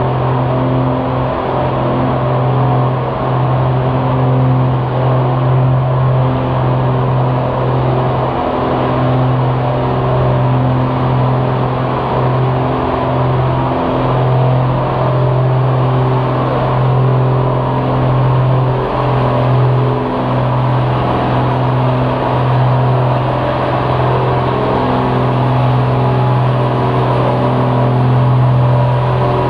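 Engine of a pulling vehicle running loud at a steady, nearly constant speed, with small brief dips.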